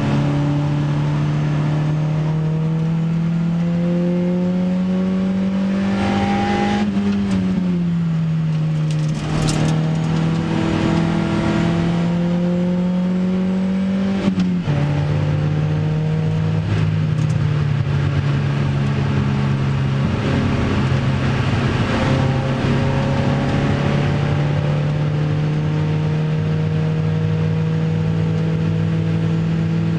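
Opel Speedster's 2.2-litre four-cylinder engine heard from inside the cabin, pulling at full throttle. Its pitch rises, drops at upshifts about seven and fourteen seconds in, then climbs slowly and steadily.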